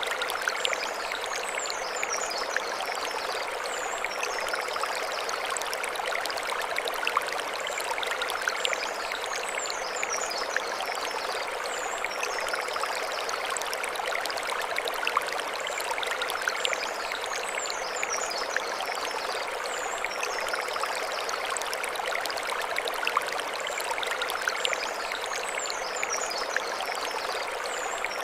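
A mountain stream running steadily over stones, with an even rushing and splashing. Short groups of high chirps come back every few seconds.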